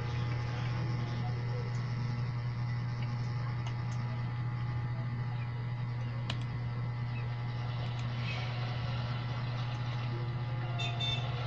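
Steady low machine hum with faint steady tones above it, and a single sharp click a little past the middle.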